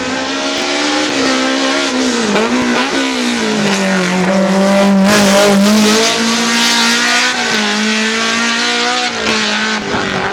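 BMW M3 E30 hill-climb race car's four-cylinder engine running hard, its pitch dipping and wavering about two to three seconds in, then holding nearly steady.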